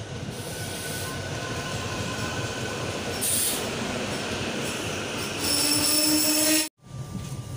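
SEPTA Regional Rail electric train moving along the platform: a steady rumble of wheels on rail with thin, squealing high tones, growing louder toward the end. It cuts off abruptly near the end.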